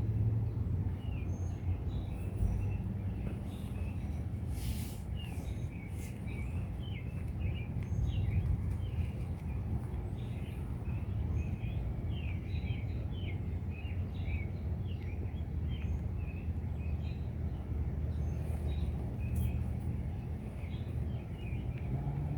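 Small birds chirping in quick short calls over a steady low outdoor rumble, with no thunderclap.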